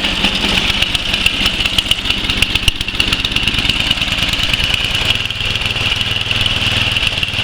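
Single-cylinder 11 hp Tecumseh Snow King engine on a Murray Select 11-29 snowblower running steadily on its first start of the season, after a hard cold start. About five seconds in, its low note turns steadier.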